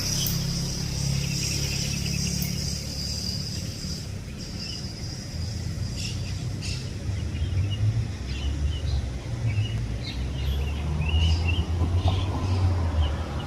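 Outdoor ambience: a steady low traffic rumble with small birds chirping in short high notes, most of them after about six seconds. A steady high buzz runs for the first four seconds.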